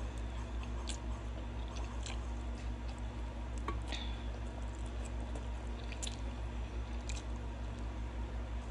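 Close-up chewing and slurping of noodles: wet mouth sounds with scattered small clicks and smacks, over a steady low hum.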